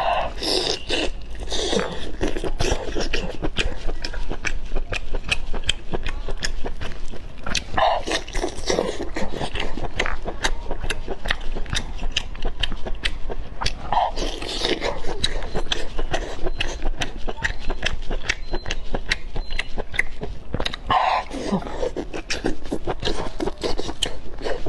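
Close-miked chewing and lip-smacking: a dense run of small wet clicks, with a louder mouth sound about every six or seven seconds.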